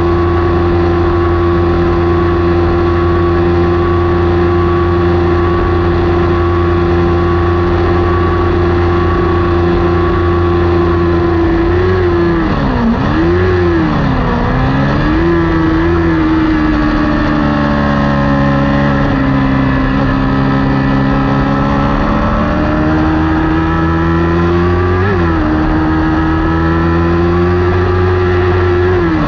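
Kawasaki Ninja 400 parallel-twin race engine running hard, held at steady high revs for about eleven seconds. The revs then dip and rise several times, settle lower for a few seconds, climb back to a steady high note and fall away near the end.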